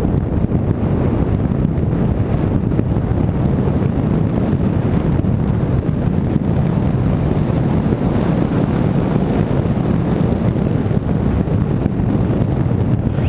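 Steady wind rumble buffeting the microphone, a dense low roar with no engine or propeller tone in it.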